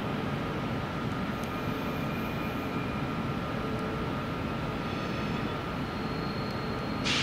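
Electric train at a station: a steady low rumble with a faint, constant electrical whine, then a sudden sharp hiss of air near the end.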